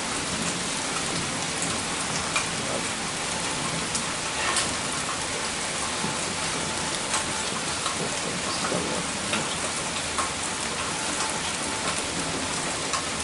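Steady rain falling, with scattered louder drop taps standing out from the even hiss.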